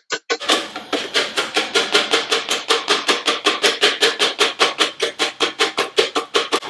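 A wire whisk beating eggs and sugar in a bowl, a rapid, even clinking of about seven strokes a second; this is the whisking that keeps the eggs from cooking as the boiling milk goes in. The strokes get louder and fuller under half a second in.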